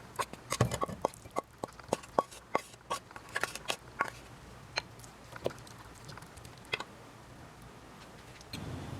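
A knife tapping on a cutting board in a quick, uneven series of sharp taps, about three a second, thinning out after about four seconds.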